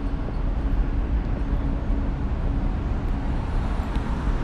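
Steady low rumble of outdoor city background noise with no clear single event.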